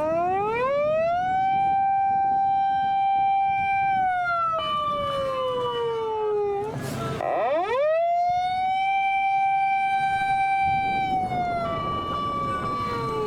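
Fire engine siren wailing twice. Each time it rises quickly, holds a steady pitch for about three seconds, then slides slowly down, with a second, higher steady tone sounding over the end of each fall.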